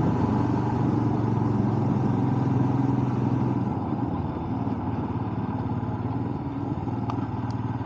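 Motorcycle engine running steadily on the road, a little quieter from about halfway through.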